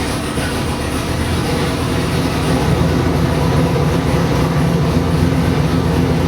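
347 cubic-inch stroker small-block Ford V8 crate engine running steadily, a little louder from about two seconds in.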